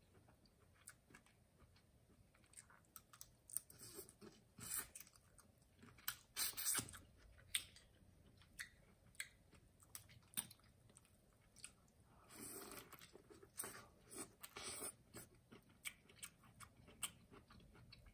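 Close-miked eating of a sauce-covered seafood boil: chewing, with scattered sharp clicks and a few louder bursts, the loudest about six seconds in and again around twelve seconds.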